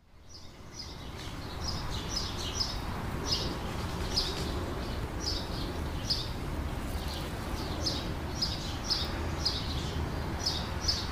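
Small birds chirping, short high falling calls repeated about once or twice a second, over a steady low outdoor rumble that fades in at the start.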